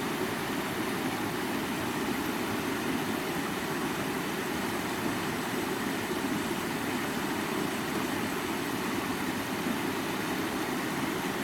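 Creek water running steadily over rocks, an even rushing that does not change.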